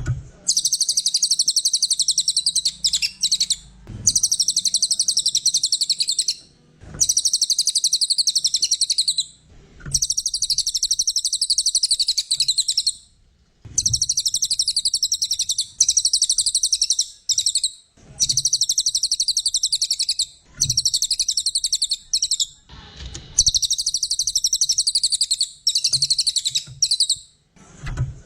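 Cililin coklat songbird singing: rapid, high-pitched chirping trills in repeated phrases of one to four seconds, separated by short pauses.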